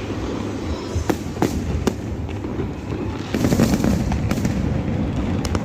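Fireworks display: a continuous low rumble of shell bursts with sharp bangs every second or so, growing denser and louder about three seconds in.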